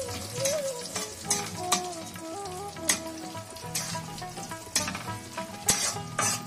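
Diced coconut sizzling in hot mustard oil in a kadai, with a spatula scraping and stirring against the pan in irregular strokes.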